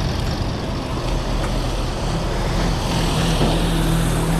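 Scania truck engine running steadily.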